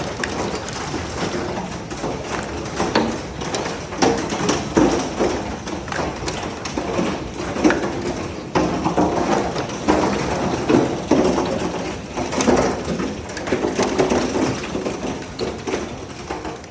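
Hailstones pelting down in a heavy storm, a dense, irregular clatter of hard knocks and taps over a steady rush.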